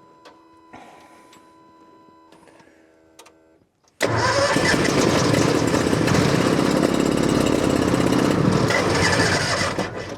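An old skid steer's fuel-injected gasoline engine is cranked by its starter from cold for about six seconds, starting suddenly about four seconds in, and does not catch. This is a hard cold start, which the owner puts down to the cold.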